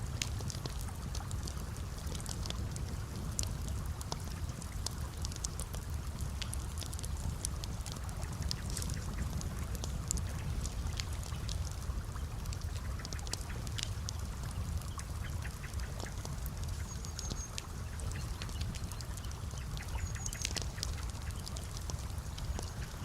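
Wood campfire crackling, with many sharp irregular pops over a steady low rumble and gently trickling water, and two brief high squeaks near the end.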